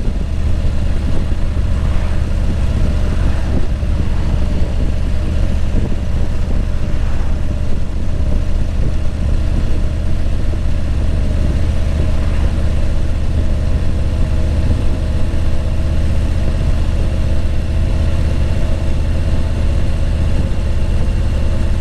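Steady rumble of a car travelling along a road, engine and road noise heard continuously.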